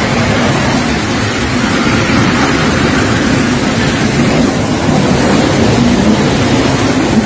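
Loud, steady rushing of thunderstorm wind and rain on the microphone. It cuts off suddenly at the very end.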